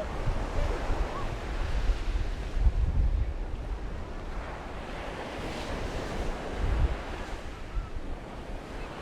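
Sea waves washing onto a sandy beach, with wind buffeting the microphone in low gusts, strongest about three seconds in and again near seven seconds.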